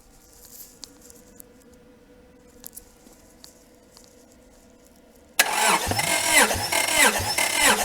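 Honda F23A four-cylinder engine being turned over by its starter for a compression test, without firing. The cranking cuts in suddenly about five seconds in, with the starter's whine dipping in pitch in a steady rhythm, a little under twice a second, as it pushes through compression.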